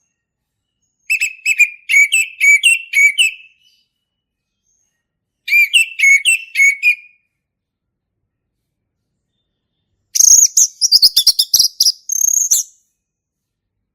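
Male orange-headed thrush singing in three short bursts of rapid repeated whistled notes, the third higher-pitched and faster than the first two, with silent pauses between them.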